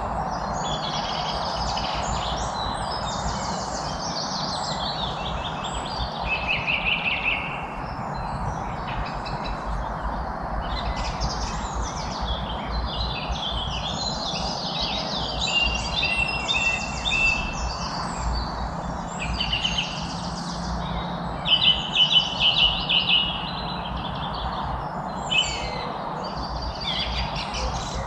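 Several songbirds singing and chirping at once, overlapping rapid trills and short chirps, over a steady background hiss.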